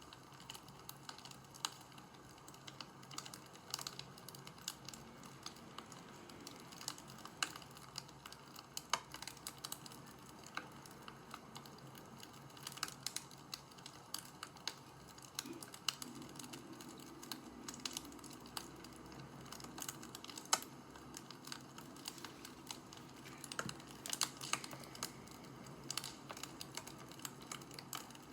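Wood fire crackling: irregular sharp pops and snaps of burning wood over a steady low hiss, with a few louder pops scattered through.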